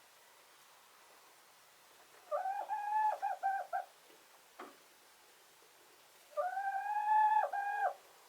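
Chicken calling twice, each a drawn-out, level-pitched call of about a second and a half that breaks into short segments at its end.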